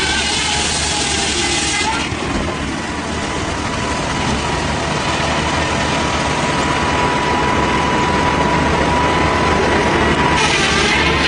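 Engine-driven machinery running steadily, with a thin steady whine over a dense mechanical noise. The sound changes abruptly about two seconds in and again near the end.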